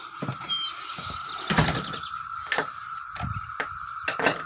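Steady drone of a cicada chorus, heard as one unbroken high hum, with a few sharp knocks and clatters over it. The loudest knocks come about one and a half seconds in and near the end.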